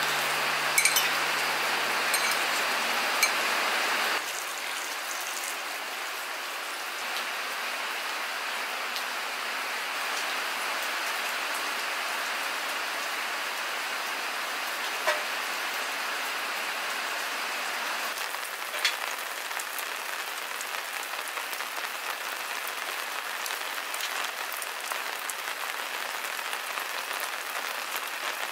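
Steady rain falling, an even hiss with a few isolated ticks. In the first four seconds the hiss is louder, with sharp clinks of chopsticks against the clay pot, and it drops away suddenly.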